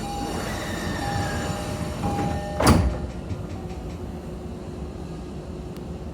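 Passenger doors of a Toei 10-300 series commuter train closing: a few short chime tones, then the sliding doors shut with one loud thud about two and a half seconds in, heard from inside the car.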